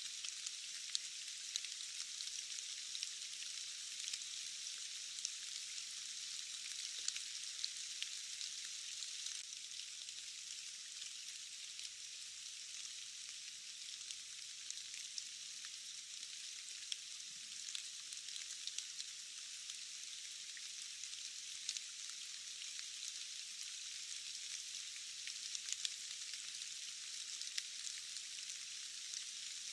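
Steady rain hiss with many small, sharp drop ticks scattered through it. The sound is thin and high, with no low rumble.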